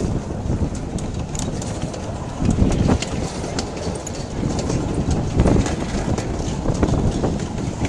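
Miniature railway train running on its track: a steady rumble with irregular clicks and knocks from the wheels on the rails.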